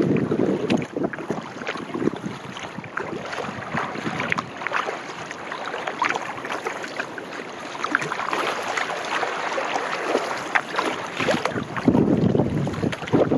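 Kayak paddle splashing and dripping water with each stroke, many small sharp splashes over a steady wash, with wind buffeting the microphone, strongest near the end.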